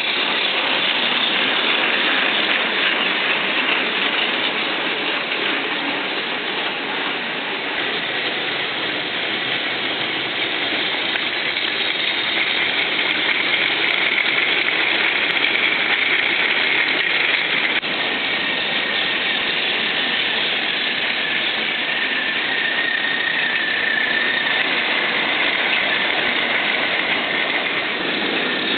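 Battery-powered Plarail toy train running on plastic track: the small motor and gearbox whine with a steady rattling clatter of the wheels on the track. The whine drops slightly in pitch about halfway through.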